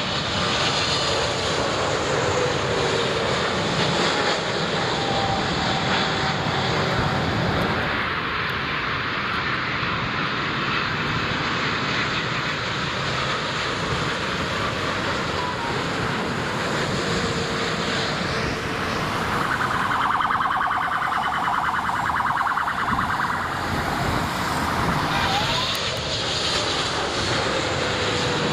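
Jet airliner engine noise, loud and continuous, with a whine that glides slowly in pitch as the aircraft passes.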